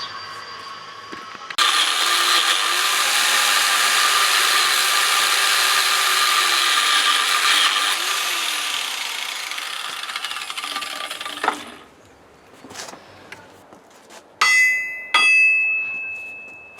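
A power tool runs under load on metal for about ten seconds, starting abruptly and then stopping. A few seconds later come two sharp hammer blows on metal that ring out, knocking the old handle loose.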